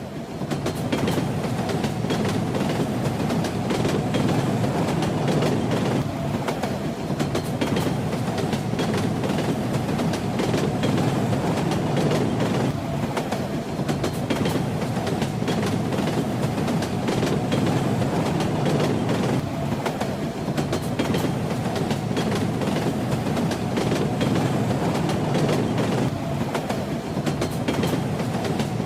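Passenger train running steadily: a continuous low rumble with the clatter of wheels over the rail joints. It fades in over the first second.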